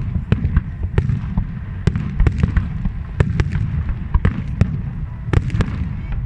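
Fireworks display: sharp, irregular bangs and crackles, several a second, over a continuous low rumble of distant bursts.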